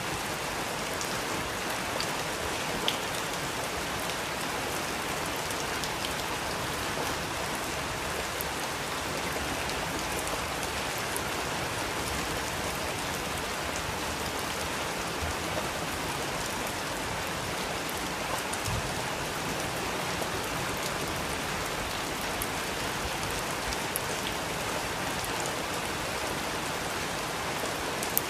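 Steady rain falling, an even hiss with a few sharper drops ticking here and there.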